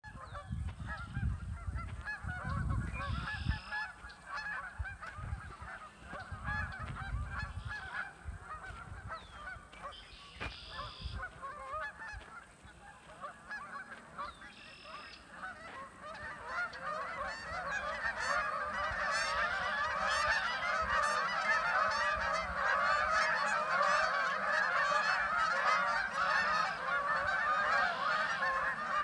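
A flock of geese honking, many calls overlapping in a constant chorus that grows louder about halfway through. A low rumble comes and goes in the first several seconds.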